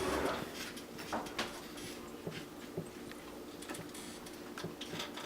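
Scattered light clicks and soft rustles of a sandwich being assembled, with food and utensils handled, over a steady low hum, opening with a brief louder swish.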